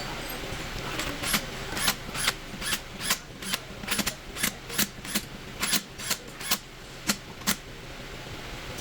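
A hand tool worked in quick repeated strokes, about two or three a second, starting about a second in and stopping near the end.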